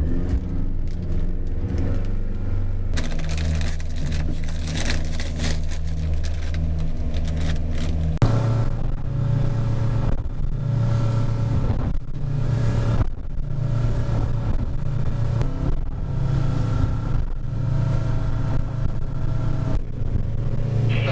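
Boat's outboard motor running under way, its pitch stepping up twice as the throttle is opened, about three seconds in and again about eight seconds in.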